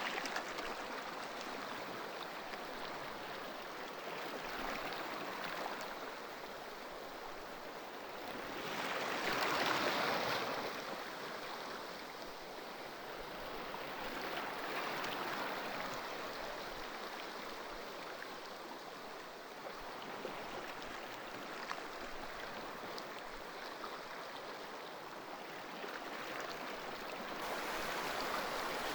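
Ocean surf: a continuous wash of waves that swells and eases every few seconds, with the biggest wave breaking about ten seconds in.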